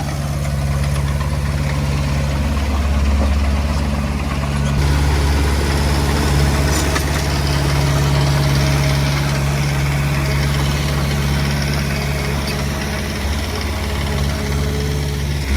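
Diesel engine of a Komatsu D20P bulldozer running steadily with a low, even hum.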